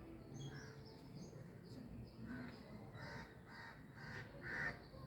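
Birds calling: a quick run of repeated calls in the second half, the last one loudest, with a few thin, high chirps earlier.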